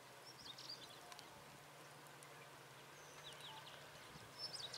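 Faint bird chirps: small clusters of short, high notes near the start, around three seconds in and near the end, over a faint steady low hum.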